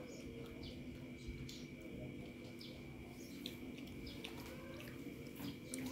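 Faint chewing and lip-smacking of people eating chicken biryani by hand: a string of short, wet clicks over a steady faint hum.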